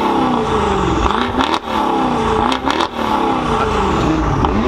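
Engine fitted with an aftermarket exhaust being revved several times in short blips, its pitch rising and falling with each rev.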